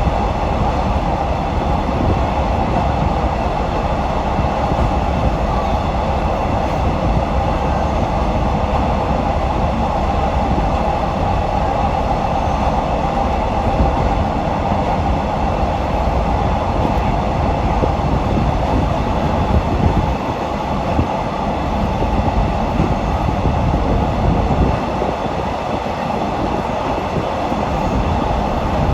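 Passenger train running along the track, heard from inside a carriage: a steady noise of wheels on rails and rushing air. The low rumble drops briefly about twenty seconds in and again a few seconds later.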